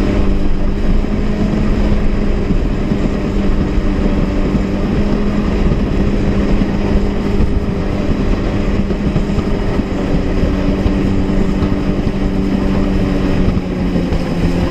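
Honda jet ski's four-stroke engine running at a steady pitch while under way, with rushing wind and water spray over the microphone.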